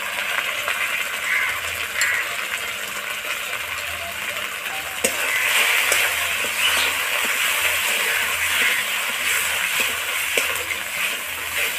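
Spice paste with poppy seed paste sizzling as it fries in oil in a metal kadai. A flat metal spatula stirs and scrapes it, with a few clicks against the pan. The sizzle grows louder about five seconds in.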